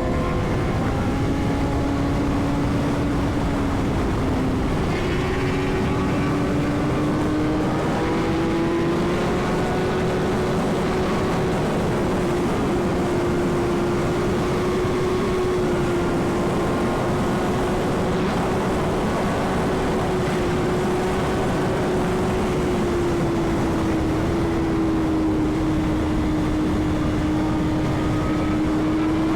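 Superbike engine running at speed under the rider, its pitch climbing over the first few seconds as it accelerates, then holding nearly steady and easing slightly near the end, over heavy wind rush.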